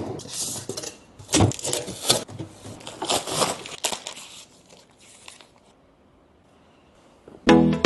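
Irregular crinkling and rustling, as of something being handled or crumpled, in several bursts over about five seconds, then near quiet.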